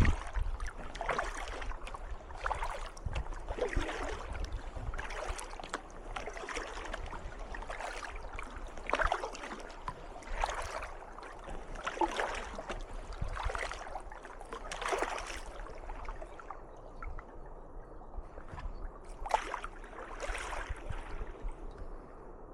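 Kayak paddle strokes in calm canal water: a splash roughly every second and a half as the blades dip in, alternating sides. The strokes pause for about three seconds, then resume near the end.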